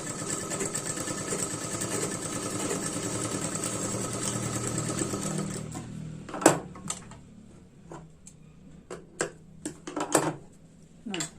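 Sewing machine running steadily, stitching a tuck in a blouse front, then stopping about six seconds in. After it stops, there are a few separate sharp clicks and short rustles.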